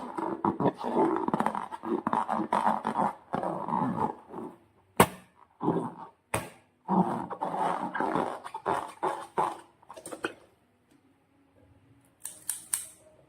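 Slime being squeezed and worked by hand: wet squelching and crackling in stretches of a few seconds, with a couple of sharp clicks in the middle. It is quieter after about ten seconds, then a short crackle sounds near the end.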